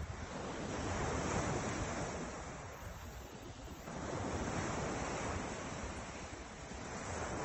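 Ocean surf breaking and washing ashore, swelling and ebbing in surges a few seconds apart, with wind buffeting the microphone.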